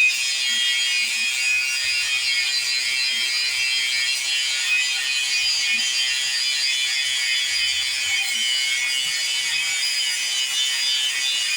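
Power grinder grinding a steel knife blank with a steady, high-pitched hiss.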